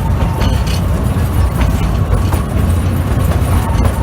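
Narrow-gauge train running: a steady low rumble with scattered clicks and clanks.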